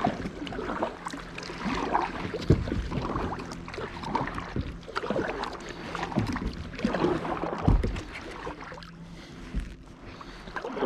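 Kayak paddling: the paddle blades dipping and splashing in the lake water in an uneven rhythm of strokes about a second apart, with a few short low thumps.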